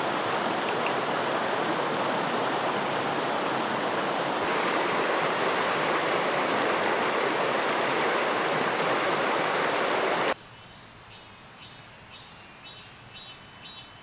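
Steady loud noise of a flowing creek. About ten seconds in it cuts off suddenly to a much quieter background of insects chirping in an even rhythm, roughly three chirps a second.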